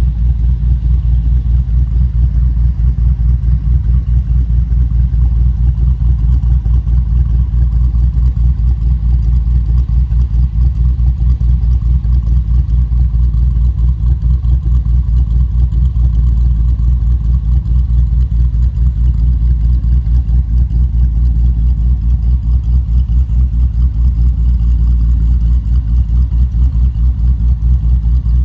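Hemi V8 swapped into a Jeep Wrangler JK Unlimited, idling steadily with an even, deep rumble through an unfinished exhaust that has downpipes but no tailpipes yet.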